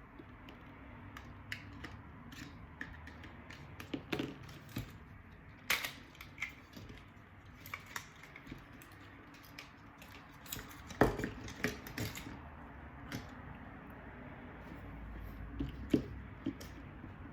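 Irregular light clicks and taps of a small SG907 drone and its parts being handled and worked on during repair, with a sharper knock about eleven seconds in, over a low steady hum.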